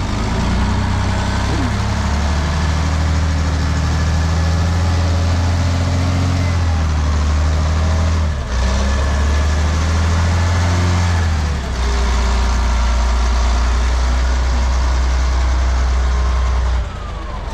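Off-road haul truck's diesel engine running under load, its note stepping up and down between a few steady levels, with a brief dip about eight seconds in and a drop near the end, as the truck works to turn out of a muddy rut.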